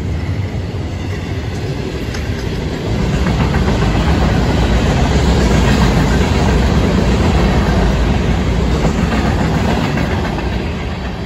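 Freight cars of a Florida East Coast Railway train rolling past close by: a steady rumble of steel wheels on the rails. It grows louder about three seconds in and fades near the end.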